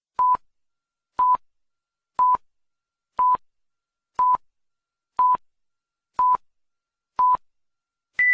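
Electronic beeps: eight short identical pips, one a second, then a higher-pitched pip right at the end, the pattern of a countdown timer beep.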